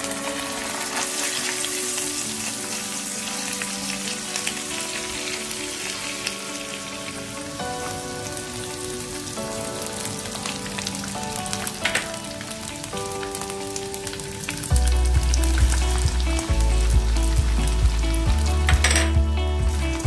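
Oil sizzling and crackling in a wok as chopped aromatics and ground chilli paste fry. Background music plays along, with a heavy bass beat coming in about three-quarters of the way through.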